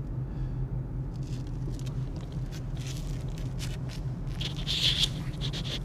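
Steady low drone of a car driving, with scattered light rustling and crackling; a louder rustle comes about five seconds in.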